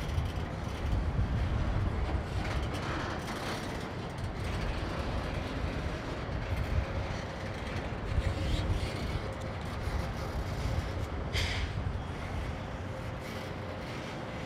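Freight train rolling past with a low, steady rumble and irregular clanks from the railcars, and a short hiss about eleven seconds in.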